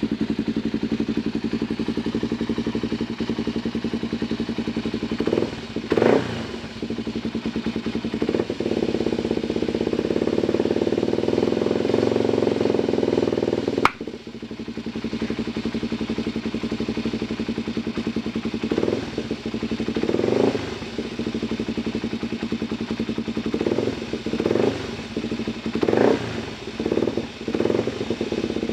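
Yamaha TT-R250 single-cylinder four-stroke engine idling, blipped several times and dropping back to idle. About halfway through a single sharp click, like a loud tongue click or a small rock hitting plastic, sounds as the idle stumbles: an intermittent knock at idle whose cause the owner cannot find.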